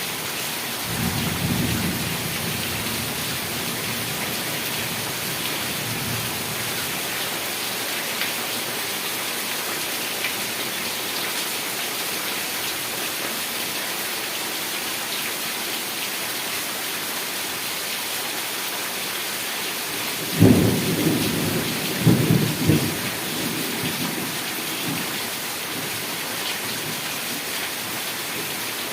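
Heavy rain falling as a steady hiss, with thunder: a faint low rumble about a second in, and a louder rolling rumble in several surges about twenty seconds in.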